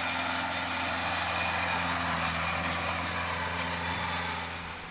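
Engine of a Mahindra compact diesel tractor running steadily, fading somewhat near the end.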